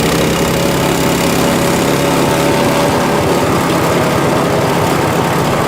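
Kubota L5740 tractor's diesel engine running steadily, with an even low pulsing.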